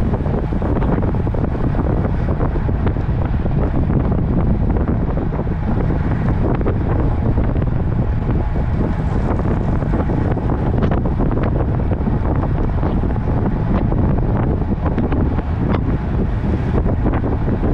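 Wind buffeting the microphone of a camera carried on a moving road bike: a steady low rush with faint small ticks scattered through it.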